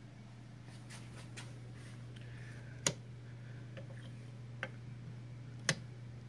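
Light clicks and taps from handling the vintage Modernage 770 sewing machine's parts, with two sharper clicks, one near the middle and one near the end, over a steady low hum.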